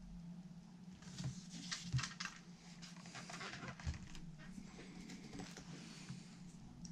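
Scattered light clicks, taps and rustling from small parts and tools being handled by hand, over a steady low electrical hum.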